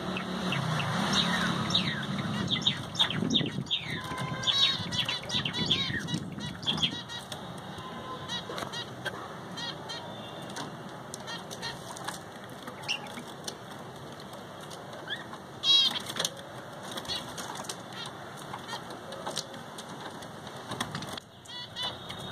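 Small pet parrots kept as 'love birds' chirping and chattering in quick, repeated high notes, with wing flapping in the first few seconds.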